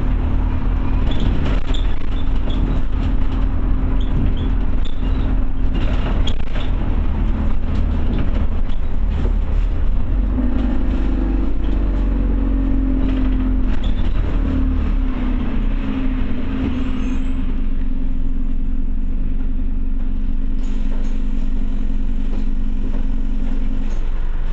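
Scania OmniCity bus heard from inside: the diesel engine running with a steady rumble and interior rattles and knocks, its note rising about ten seconds in and then holding steady.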